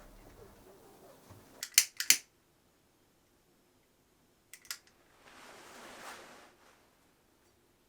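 A few sharp clicks, three close together and then two more a couple of seconds later, followed by a soft rushing noise lasting about a second.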